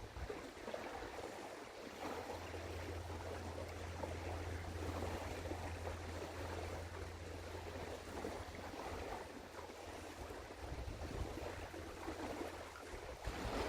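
Outdoor river ambience: water washing and a soft rush of wind noise, with a low steady hum for several seconds in the middle.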